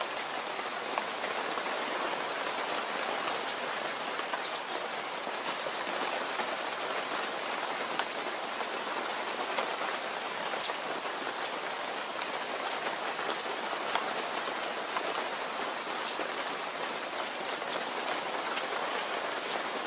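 Steady rain falling, with individual drops ticking sharply on a hard surface here and there.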